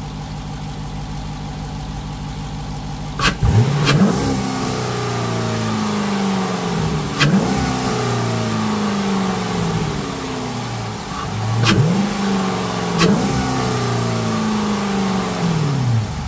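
2021 Dodge Durango's 5.7-litre Hemi V8, fitted with a JLT cold air intake and a Borla exhaust, idling and then revved in five quick throttle blips. The first two come close together about three seconds in, and after each blip the revs fall slowly back toward idle. It is heard from beside the open engine bay, so the intake sound comes through.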